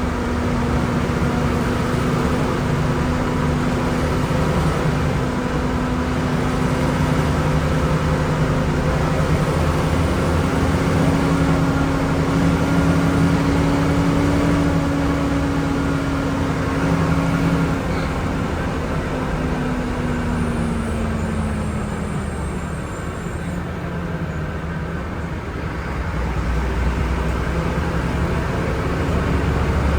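Volvo B10M bus's six-cylinder diesel engine running steadily under way. Its note rises slightly, then falls away about two-thirds through as the sound dips. A deeper low rumble builds near the end.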